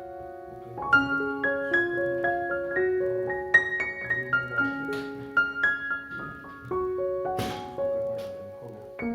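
Background piano music: a gentle melody of single struck notes and chords at an easy pace.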